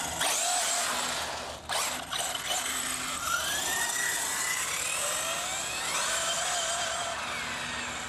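1/7 scale electric RC monster truck driving, its Castle Mamba Monster 2200kv brushless motor whining up and down in pitch as it speeds up and slows, over a steady hiss of tyres on asphalt. A sharp knock comes about two seconds in.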